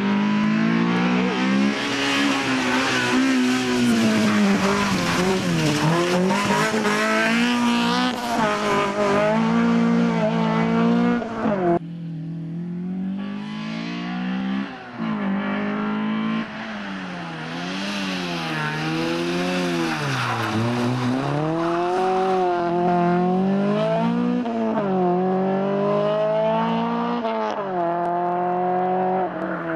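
Honda Civic VTi rally car's four-cylinder VTEC engine revving hard through the gears, its pitch climbing and dropping again and again with each shift and lift. The sound breaks off suddenly about twelve seconds in and picks up again at a lower level.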